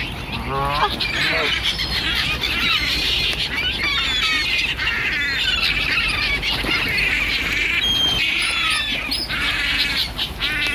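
A large flock of birds squawking at close range, many harsh calls overlapping without a break.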